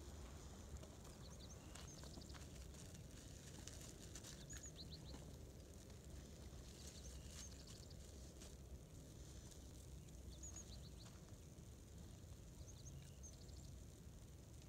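Faint small-bird chirps: short, high notes in little clusters of three or four, repeating every second or two over a low steady rumble.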